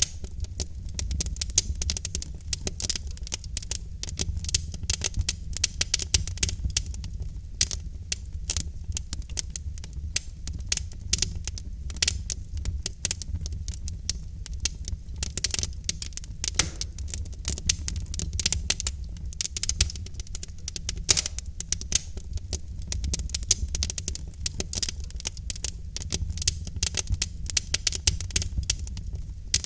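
Wood fire burning in a fireplace, logs crackling and popping in dense irregular snaps over a steady low rumble of the flames.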